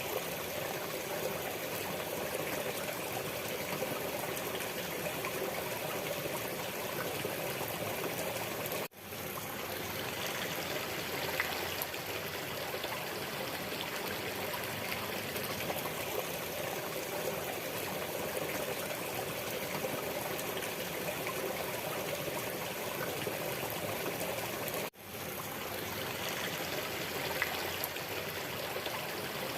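Waterfall water rushing and splashing in a steady, even stream. The sound drops out for an instant twice, about sixteen seconds apart, and quickly swells back.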